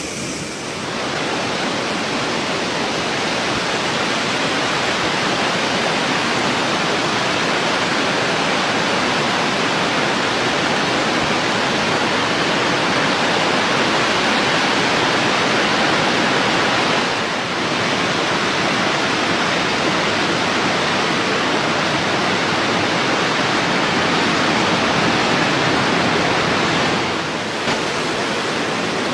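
Heavy water pouring through a dam's spillway at high flow, a loud steady rushing that dips briefly twice.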